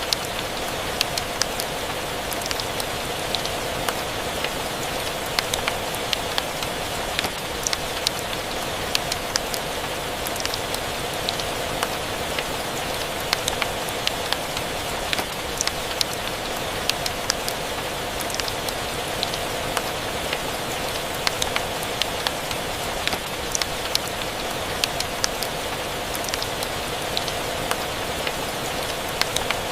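Steady rain ambience: an even wash of rain with many scattered short, sharp ticks throughout.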